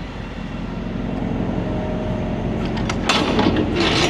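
A diesel engine idling steadily, its sound growing slightly louder, with two short rushing, hissing noises about three seconds in.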